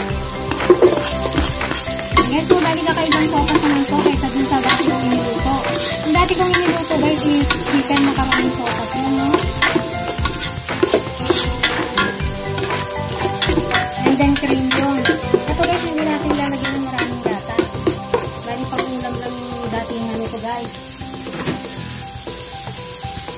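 Chopped garlic and onion sizzling in hot oil in an aluminium pot, with a spatula scraping and tapping against the pot bottom as it stirs, many quick scrapes over a steady sizzle.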